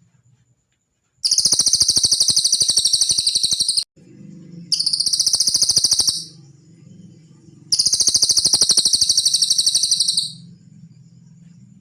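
Cililin bird singing: three fast, high-pitched trills of rapidly repeated notes, each two to three seconds long, with short pauses between. A faint low hum runs underneath.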